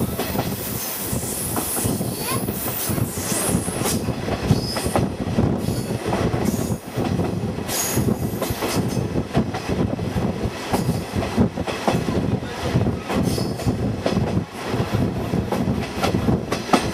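KiHa 48 diesel railcar of the Kaze-ko trolley train running at speed, heard from on board: a steady rushing run with wheels knocking and rattling over the track.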